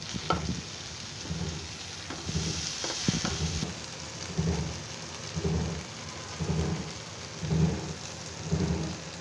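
Potatoes and aubergine sizzling in a non-stick kadai while a spatula stirs them. The steady hiss of frying runs under dull scraping strokes about once a second, with the sizzle briefly brighter a couple of seconds in.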